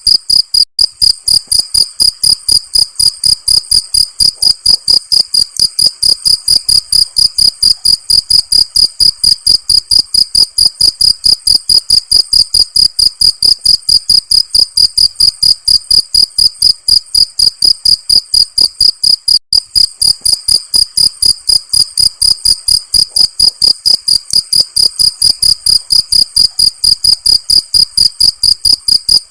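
Cricket chirping loudly and very regularly, about three chirps a second, each a high, clear pitch.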